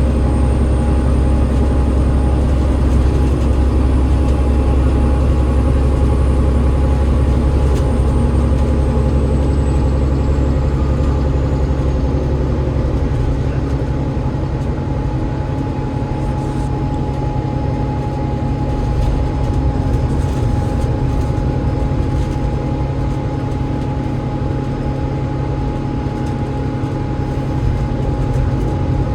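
Enviro500 MMC double-decker bus underway, heard from inside: the Cummins ISL8.9 diesel and ZF EcoLife automatic gearbox running with a deep, steady rumble and a steady mid-pitched tone. A faint high whine slides up and then falls away in the first dozen seconds.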